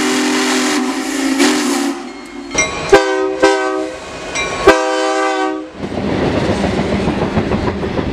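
A run of train sounds: a steam locomotive's whistle held steady for about two seconds, then several diesel air-horn blasts ending in a longer one, then the steady noise of a train rolling past.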